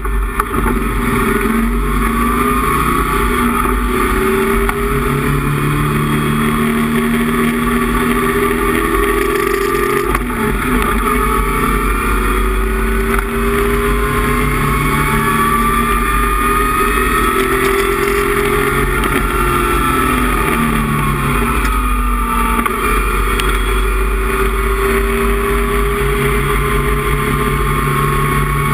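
Datsun 260Z race car's 2.6-litre straight-six engine heard from inside the cockpit at racing speed. Its pitch climbs steadily with the revs and drops back again and again as the car accelerates, shifts and slows for corners.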